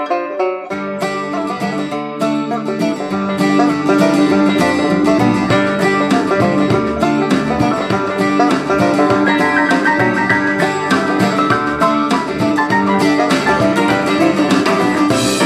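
Plucked-string music from an FM broadcast playing through the Tecsun S-8800 portable radio's speaker, with a fuller bass end coming in about a second in.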